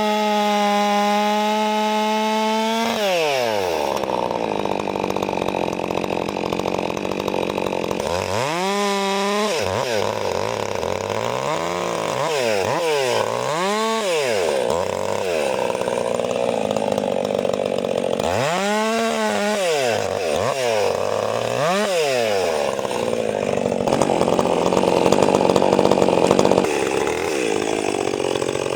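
Mastermind-modified Stihl 400C chainsaw cutting hardwood: it screams at full throttle, then its pitch drops and turns rough as the chain bites into the wood. Between cuts it is blipped up and down several times.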